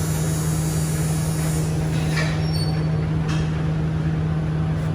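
Steady low mechanical hum in the background, with a few faint light clicks about two and three seconds in.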